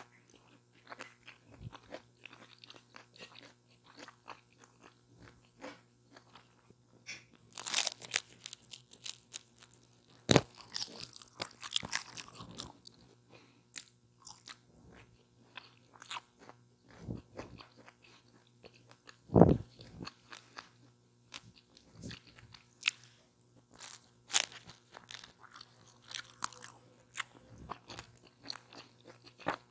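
Close-miked biting and chewing of a chicken taco with lettuce and tomato: irregular crunching and crackling mouth sounds, with a few louder bites standing out, the loudest about two-thirds of the way through.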